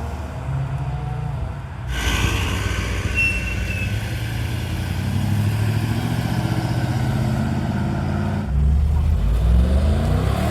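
Car engines and exhausts running as cars pull out. A louder car comes in about two seconds in, and near the end one accelerates, its engine note rising.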